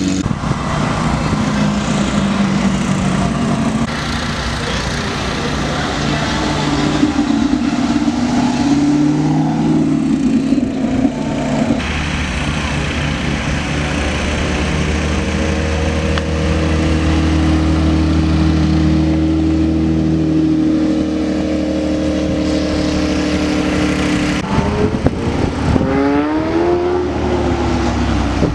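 Italian sports car engines running at idle and moving off at low speed. About 24 seconds in, an engine is revved, its pitch rising and falling a few times.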